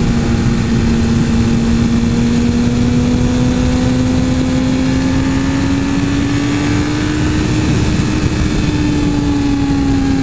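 Suzuki GSX-R 1000 superbike's inline-four engine running under steady throttle while riding. Its tone climbs slowly over several seconds and eases back a little near the end, under heavy wind rush.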